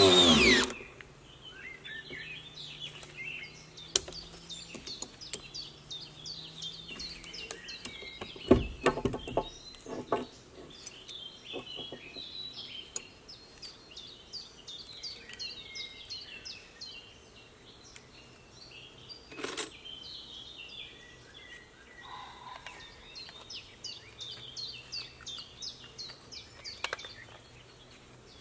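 Small birds singing, with many quick high chirps repeating throughout, and a few scattered knocks, the loudest about eight and a half seconds in. A chainsaw dies away right at the start.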